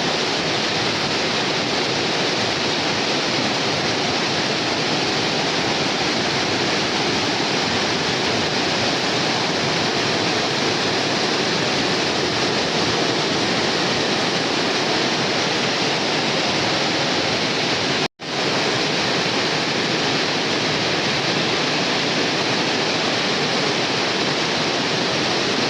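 Steady hiss of heavy rain falling, broken once by a sudden split-second silence about 18 seconds in.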